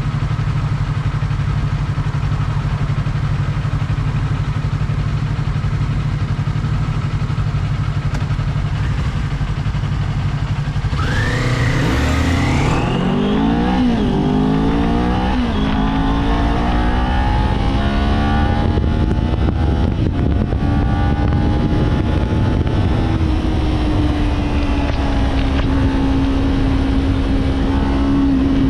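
Kawasaki Z400 parallel-twin engine ticking over steadily, then about eleven seconds in it pulls away hard. The pitch climbs and drops back through a few quick upshifts, then settles into a steady cruise that eases off slightly near the end.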